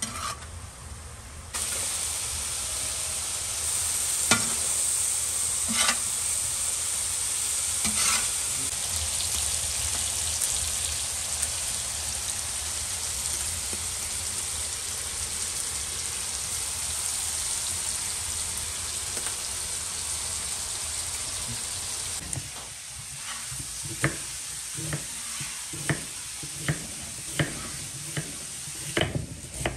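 Mushrooms and bull testicles sizzling loudly on a hot iron saj pan, starting about a second and a half in, with a few sharp knocks of the metal spatula against the pan. Near the end the sizzle gives way to a kitchen knife slicing an onion on a wooden cutting board, about one sharp stroke a second.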